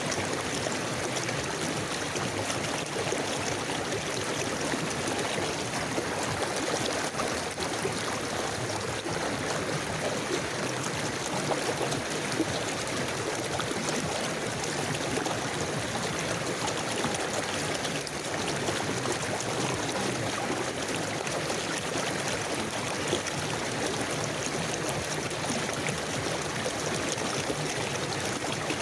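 Forest river flowing over rocks, a steady rush of water with small babbling and trickling sounds.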